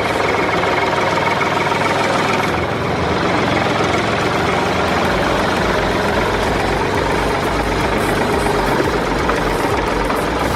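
Dump truck engine running steadily, with a deeper low rumble coming in about five seconds in.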